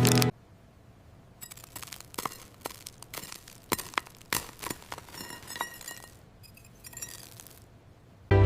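An irregular run of light, glassy clinks and taps, some with a short ring, for about six seconds. Music stops just after the start and comes back near the end.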